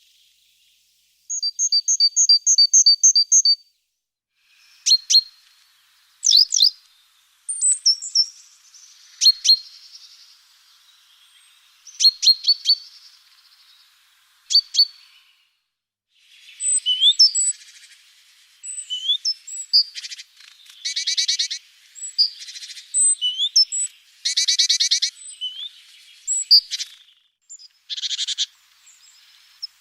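Small garden birds calling: a quick run of repeated high notes near the start, then scattered sharp chirps, and buzzy rattling calls in the second half.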